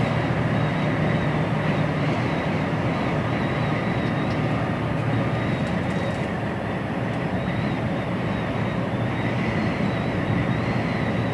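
Steady drone of an HGV tractor unit heard from inside its cab while driving: engine and road noise running evenly.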